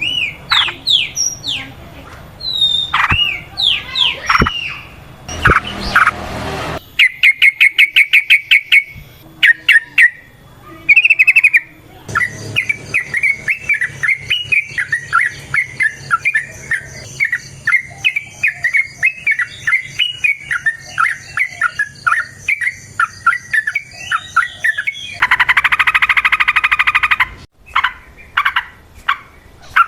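Yellow-vented bulbuls (trucukan) singing and chattering loudly: separate whistled, slurred notes, a fast run of notes about seven seconds in, then a long, rapid, bubbling chatter. A harsh, rasping burst comes near the end.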